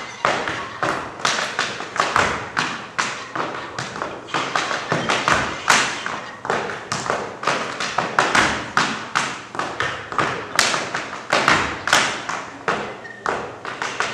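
Tap shoes striking a stage floor in an unaccompanied tap-dance passage: a steady run of sharp taps and stamps, about three a second.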